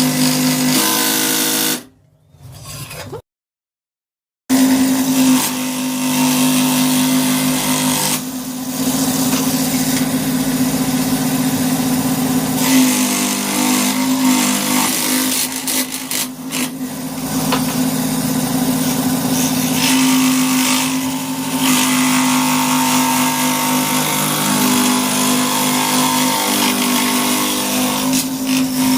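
Electric motor of a woodworking power tool running steadily with a constant hum, with a hiss of cutting over it. The sound cuts out to silence about two seconds in and returns about two seconds later.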